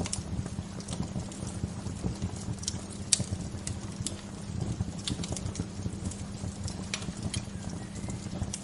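Wood fire crackling: irregular sharp pops and snaps, one louder pop about three seconds in, over a steady low rumble.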